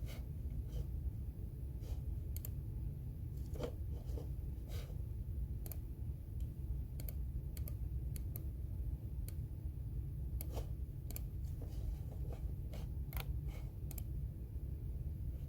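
Computer keyboard keys typed in scattered, irregular clicks, over a steady low rumble.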